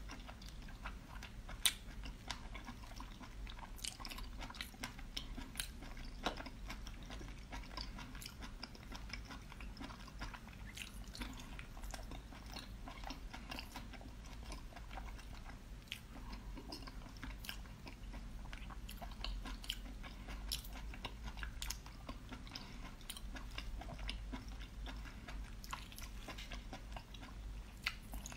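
A person biting and chewing cooked octopus close to the microphone: soft, wet mouth sounds with many scattered small clicks and smacks, over a faint steady low hum.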